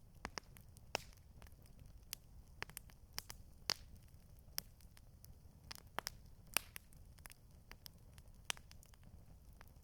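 Campfire crackling: irregular sharp pops and snaps, a few louder ones among many small ticks, over a low steady rumble.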